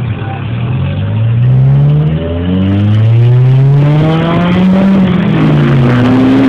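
Car engine revving hard under acceleration: its pitch climbs, dips briefly about two seconds in, climbs again for several seconds, then falls away near the end.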